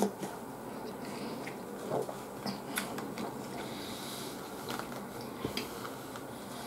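A person chewing soft, soup-soaked bread close to the microphone, with scattered small wet clicks and squishes from the mouth.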